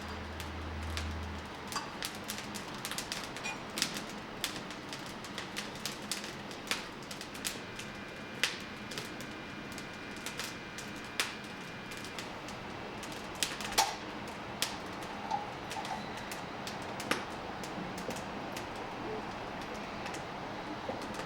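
Wood fire burning in a mini wood stove, crackling with irregular sharp pops over a steady hiss.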